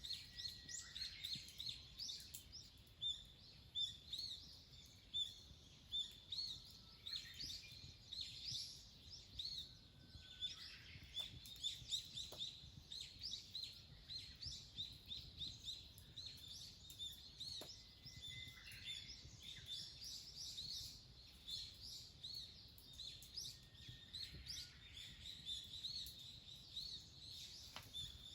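Small birds chirping: a continuous run of short, high calls, with now and then a lower call that slides down in pitch, and a few faint clicks.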